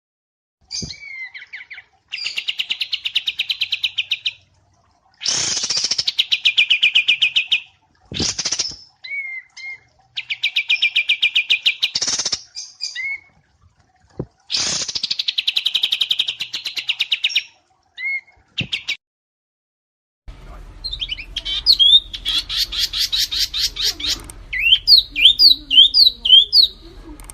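Cage songbird song used as a masteran recording: rapid buzzy trills about two seconds long, repeated with short chirps between them. Late on, a different, hissier recording takes over, with a fast trill and a run of quick rising whistled notes.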